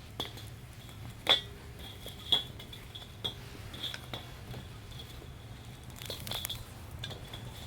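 Metal camping gear being handled: a series of sharp metal clinks and knocks, the two loudest about a second and two seconds in and a small cluster near the end, each with a brief high ring.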